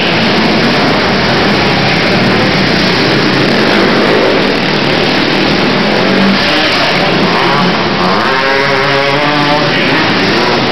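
Racing quad (ATV) engines running and revving together, a loud continuous engine noise with a rev that rises and falls near the end.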